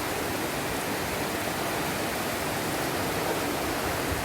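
Heavy rain pouring down steadily in a downpour, an even hiss of falling water.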